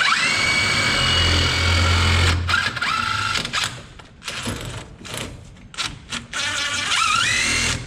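Power drill spinning up with a rising whine, running steady for about two and a half seconds, then winding down. It spins up again near the end. The drill is turning a race car ball joint to check whether it runs straight or is bent.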